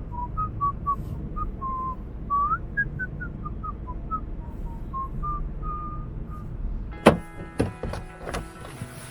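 A person whistling a tune in short, clear notes that step up and down, over low rumbling handling noise. About seven seconds in, a few sharp knocks cut it off and music takes over.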